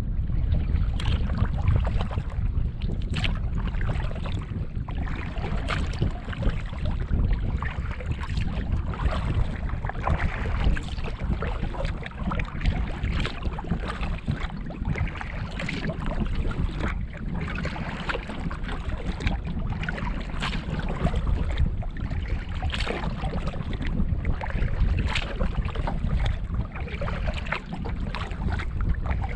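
Wind rumbling on the microphone over water splashing along a small canoe, with irregular splashes every second or two.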